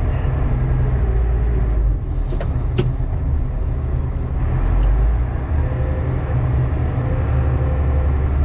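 Volvo A25G articulated haul truck's diesel engine running steadily, heard from inside the cab, dropping slightly in level about two seconds in. A few sharp clicks come just after two seconds in and another near five seconds in.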